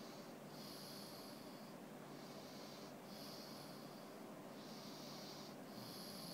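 Dog snoring in its sleep: quiet, hissy breaths, each just under a second long, repeating about once a second.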